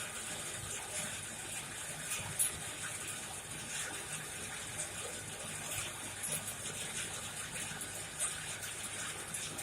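Coal forge fire burning with a steady rushing hiss and scattered sharp crackles and pops.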